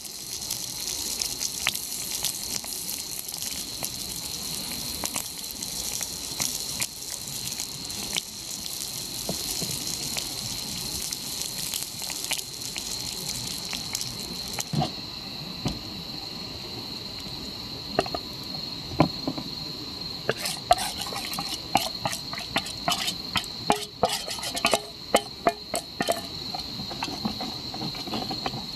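Night insects such as crickets chirping steadily in one high pitch, under a hiss that stops about halfway through. In the second half come a run of sharp clicks and light knocks.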